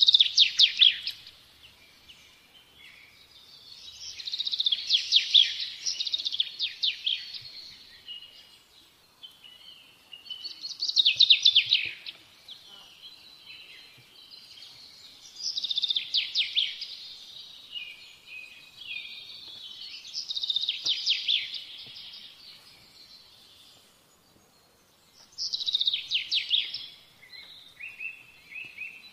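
A songbird singing in repeated rapid trilled phrases, each a second or two long, about every four to five seconds, with quieter twittering between.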